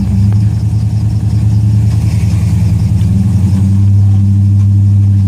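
The 5.7-litre Hemi V8 of a 2017 Dodge Ram pickup idling through a Flowmaster exhaust with a low, steady rumble, growing a little louder about four seconds in.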